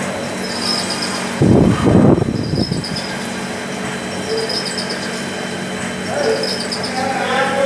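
Special-purpose screw threading machine running: a steady machine hum with short high-pitched rattles that recur every second or two. A louder noisy burst comes about one and a half seconds in.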